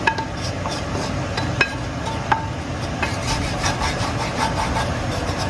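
A cooking utensil scraping and rubbing across a pan, with repeated scraping strokes and a few light metallic clinks: the browned drippings (fond) left from searing the oxtails being scraped out of the pan.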